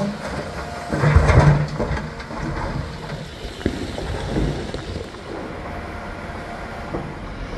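Heavy excavation machinery working in a rocky brook bed: a diesel engine running steadily, with a louder rumbling clatter of rock about a second in and scattered knocks after.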